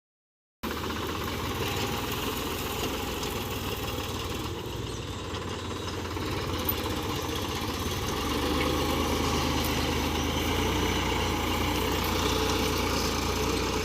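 A 47 hp tractor's diesel engine running steadily, getting a little louder about eight seconds in.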